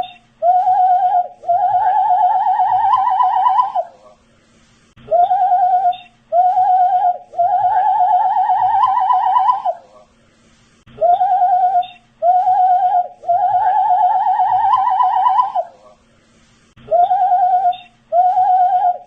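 A man whistling the same short phrase over and over, about every six seconds: two short notes, then a longer wavering note that rises slightly in pitch.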